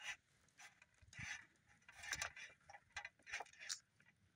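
Faint, scattered clicks and short rustles of camp cooking gear being handled.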